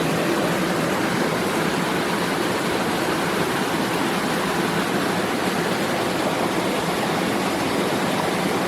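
Mountain stream rushing: a steady, even hiss of running water.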